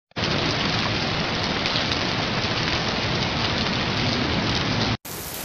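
Steady heavy rain. It cuts off abruptly near the end, and quieter rain follows.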